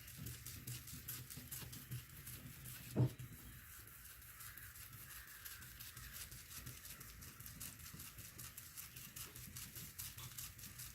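Faint, steady strokes of a paper towel damp with alcohol rubbing up and down over a plastic headlight lens, with a single light knock about three seconds in.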